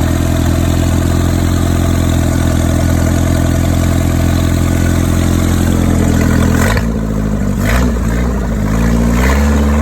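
MerCruiser 3.0 four-cylinder marine engine running steadily, then its pitch wavers and climbs in the last few seconds as the throttle is worked.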